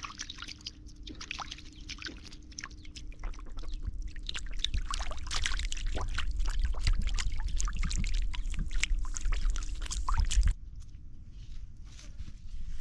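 Water splashing and sloshing in many small irregular strokes over a low rumble and a faint steady hum, as from hands working in flowing water; it all cuts off abruptly about ten and a half seconds in.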